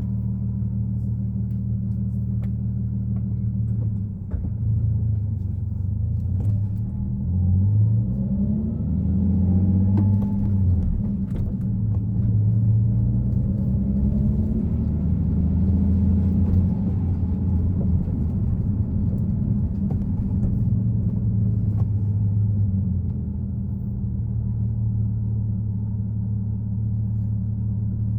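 Nissan Fairlady Z (Z34) 3.7-litre V6 running while driving, a low steady engine note. From about four seconds in its pitch rises and drops several times, louder while it pulls, then settles back to a steady drone near the end.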